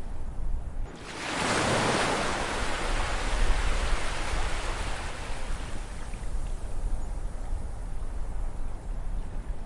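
Ocean waves breaking: a wave crashes about a second in and its hissing wash slowly fades over the following seconds, over a steady low rumble of surf.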